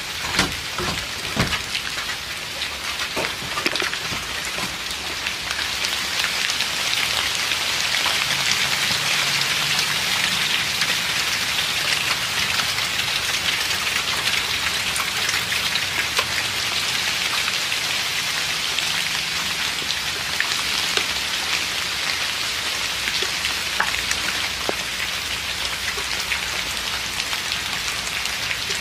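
Steady rain falling, a continuous hiss that grows heavier about six seconds in. A few sharp knocks sound in the first few seconds.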